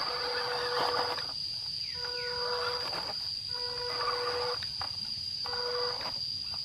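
Electric motor of a radio-controlled crawler truck whining under throttle, cutting out and coming back in short spurts, about four times, as the throttle is worked on a climb.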